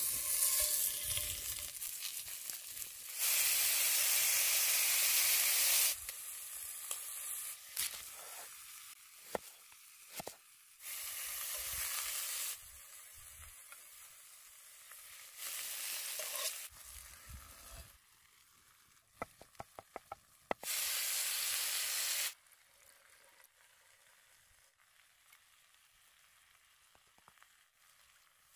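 Food frying and sizzling in a hot cast-iron pot over a campfire, in several loud spells of a couple of seconds each with quieter gaps between, and a quick run of clicks about two-thirds of the way through.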